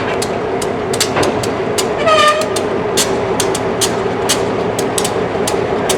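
Railroad tank cars rolling past, their wheels clicking irregularly over rail joints above a steady hum, with a brief pitched tone about two seconds in.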